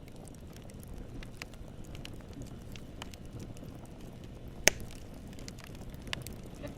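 Campfire burning with a low steady rumble and scattered crackles of wood popping, with one loud sharp pop partway through.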